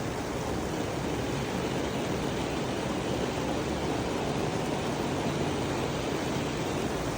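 Steady rain falling as an even, continuous hiss without breaks.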